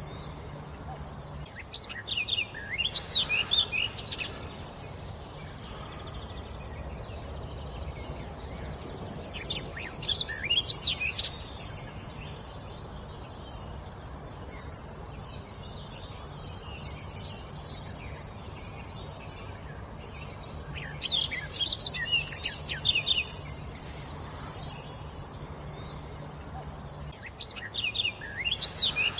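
A songbird singing short phrases of quick whistled notes, four times with pauses of several seconds between them, over steady low background noise.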